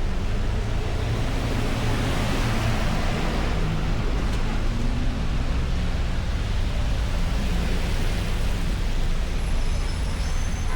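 Car driving on a snowy road: a steady low rumble of engine and tyres under a road hiss. The hiss swells for a couple of seconds about two seconds in.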